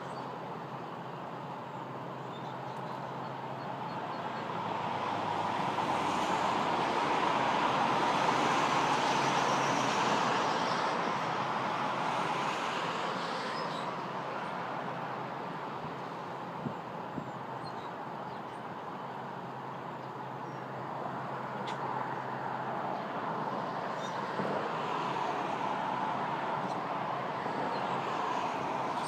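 Road traffic going by: a steady rushing noise that swells and fades about six to eleven seconds in, then builds again near the end, with a few faint ticks.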